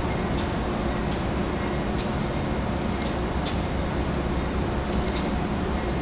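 Locomotive idling with a steady low rumble, broken every half second to a second by short sharp hisses.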